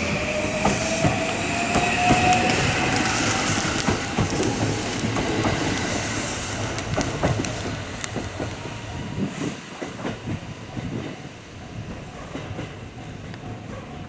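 Electric train pulling away: a motor whine rising in pitch for the first few seconds, then wheels clicking over rail joints as it fades into the distance.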